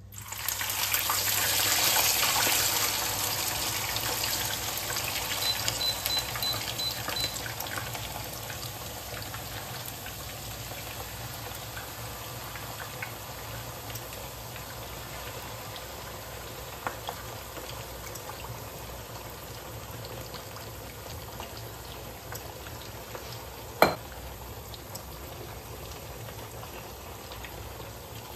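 Food sizzling and crackling as it fries in hot oil in a pan. It starts suddenly and loud, then settles to a steadier, quieter sizzle. One sharp knock comes near the end.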